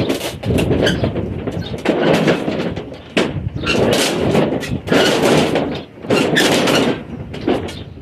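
Accordion shutter panels sliding along their track, rattling and clattering in a series of pushes, each lasting about a second.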